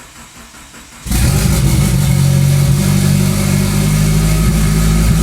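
Eagle Talon engine firing on a cold start about a second in, after sitting unstarted for a couple of weeks, then running steadily and loud.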